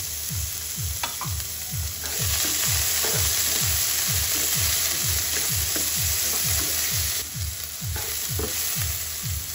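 Onion, garlic and tomato pieces sizzling in hot oil in a non-stick wok while a wooden spatula stirs them. The sizzle gets louder about two seconds in and eases off near the end.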